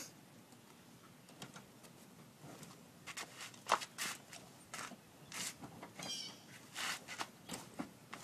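Rustling and soft knocks of bags and belongings being handled and packed, in a series of short bursts.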